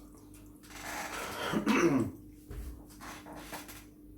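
A man's breathy, rough exhale lasting about a second and a half, ending in a voiced sound that falls in pitch, followed by a few faint short clicks, over a steady low hum.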